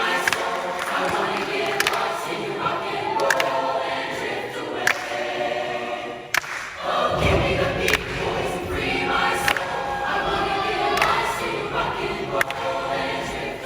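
High school show choir singing in harmony, with sharp taps now and then. A heavy low accompaniment comes in about halfway through.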